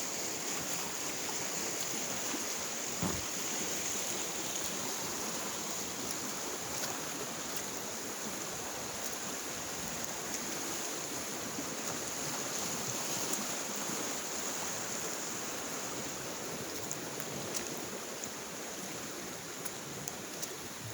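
Creek water flowing steadily, an even rushing hiss.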